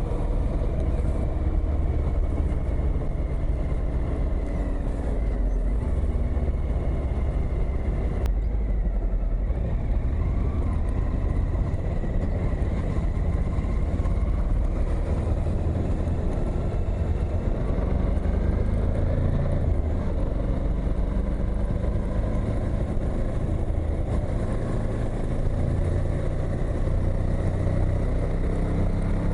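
Suzuki V-Strom motorcycle being ridden: a steady engine note whose pitch drifts slowly up and down with speed, under wind and road rush.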